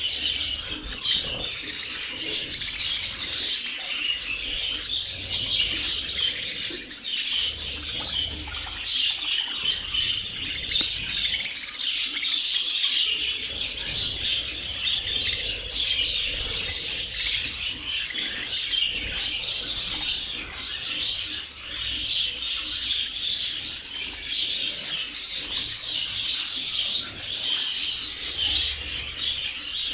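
A large flock of budgerigars in an aviary chattering and chirping continuously, many birds calling over one another.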